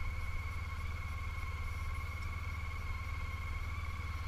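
Honda ST1300's V4 engine and road noise while riding, a steady low drone with a thin steady whine above it, as picked up by a helmet camera.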